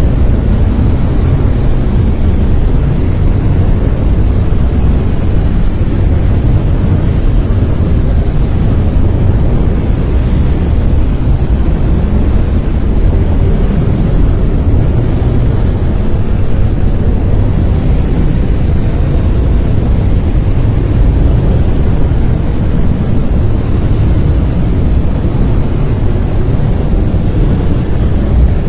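Steady, loud brown noise: a constant deep rushing hiss, strongest in the low end and falling away toward the treble, with no changes or events.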